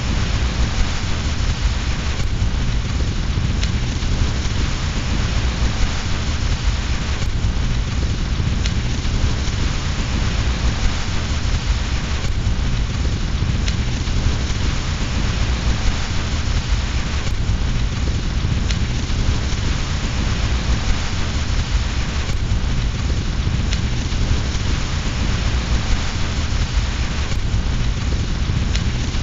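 Steady rain mixed with a fireplace fire, over a continuous deep low rumble. The ambience seems to loop, with a faint seam about every five seconds.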